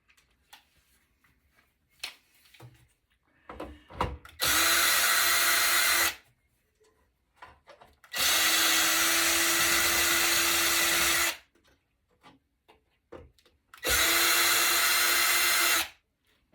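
Cordless drill/driver running in three steady bursts of about two to three seconds each, at one even pitch, backing out the risers that hold a circuit board to its metal back. Small clicks and knocks of handling come between the bursts.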